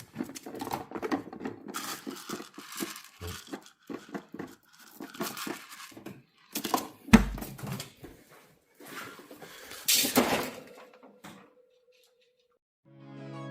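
Irregular rustling, crinkling and knocking of handled objects in a small room, with one loud thump about seven seconds in.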